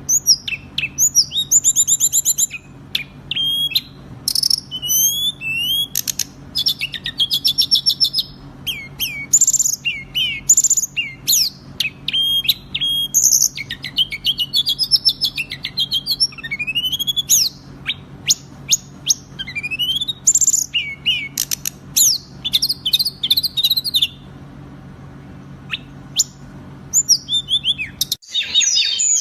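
A songbird singing a fast, dense song of chirps, trills and rising and falling whistles, a masteran recording used to teach song to caged birds. About four seconds from the end the singing pauses, leaving only a low hum. The hum then cuts off and the song starts again.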